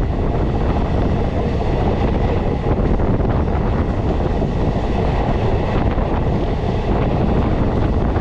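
Wind rushing over the microphone, held out of a moving passenger train, with the train's running noise beneath it.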